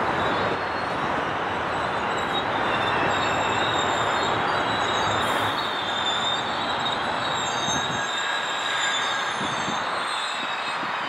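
GO Transit bilevel commuter train passing: steel wheels running on the rails with a steady rumble and high, thin wheel squeal. The low rumble eases about eight seconds in as the cab car moves off.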